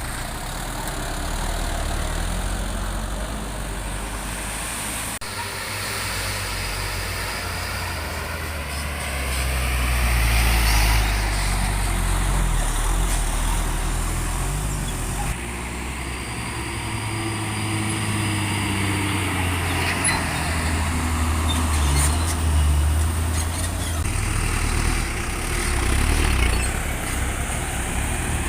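Heavy truck engines running with a low rumble that swells several times as the vehicles go by, loudest about ten seconds in and again in the last third.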